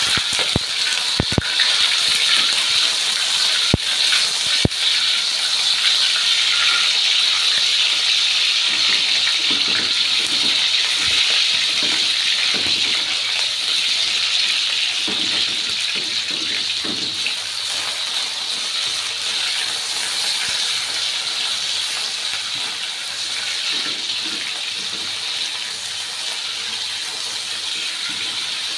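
Chicken pieces frying in hot oil with shallots and garlic in a steel wok: a steady, loud sizzle that eases slightly toward the end, with a few sharp clicks in the first five seconds.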